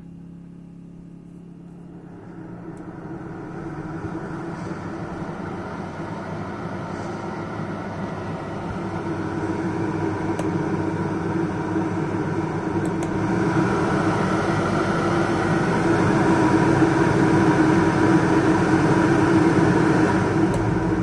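Coleman 13,500 BTU rooftop RV air conditioner running on generator power, a steady fan and motor hum. It steps up in loudness about two seconds in and again around thirteen seconds as the settings are raised from low fan toward cooling.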